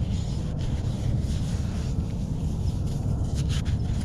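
Steady low rumbling outdoor background noise, with a few faint clicks about three and a half seconds in; the metal detector gives no tone.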